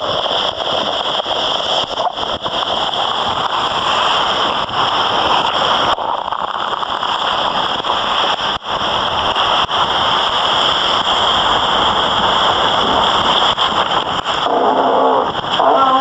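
Loud rushing wind and water noise from fast sailing, crackling as gusts buffet the microphone.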